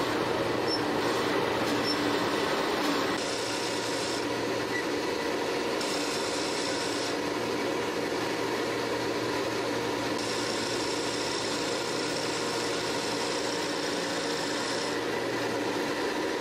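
Old tower crane's machinery running steadily, heard from the counter jib: a hum with a few steady tones, and a high hiss that cuts in and out four times, the longest for about five seconds near the end.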